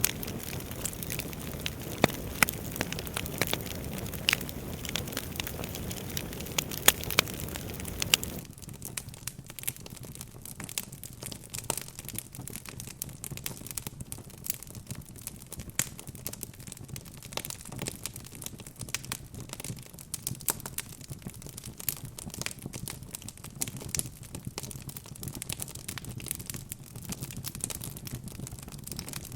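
Wood fire in a fireplace crackling, with many sharp pops and snaps over a soft rush of flames. About eight seconds in, the rush underneath suddenly drops away and the crackling continues more thinly.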